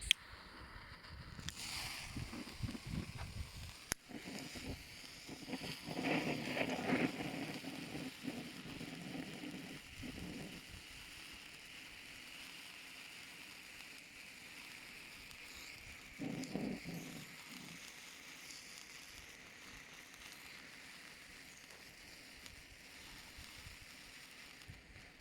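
Cake-style firework fountain spraying sparks with a steady hiss that slowly sinks in pitch and fades, after starting about a second and a half in. There is a louder stretch of noise about a quarter of the way through and a brief one past halfway.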